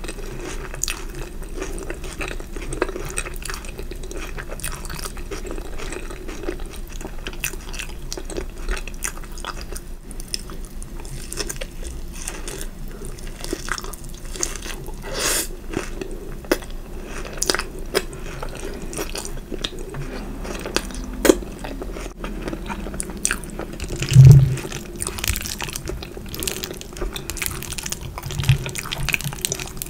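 Close-miked chewing and wet mouth sounds of someone eating: many small sharp smacking clicks and crunches, with one louder low thump about three-quarters of the way through.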